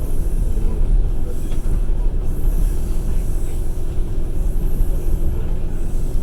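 Passenger train carriage running along the track: a steady, loud low rumble of the wheels and the moving car.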